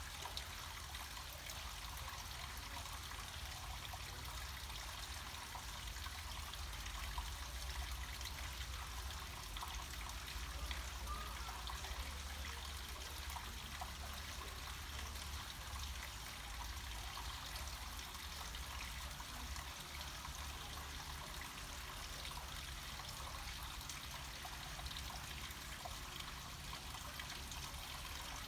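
Water trickling and splashing steadily down a small mountain cascade, with a steady low rumble underneath.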